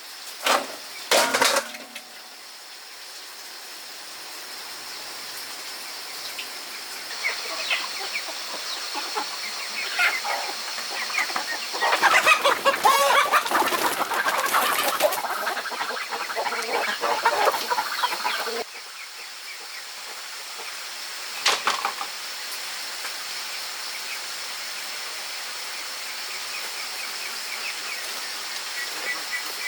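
Chickens clucking, with a steady high hiss underneath and a busier stretch of calls near the middle.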